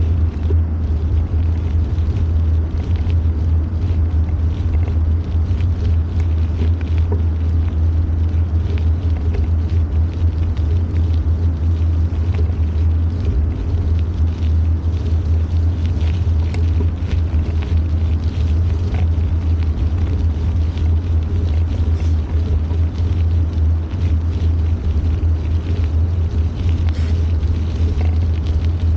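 Steady low rumble from a bicycle ride along a park trail, with scattered small clicks and rattles throughout.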